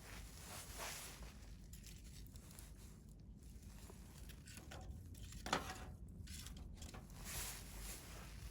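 Wood campfire burning: soft, irregular crackling and hissing, with one sharper crack about five and a half seconds in.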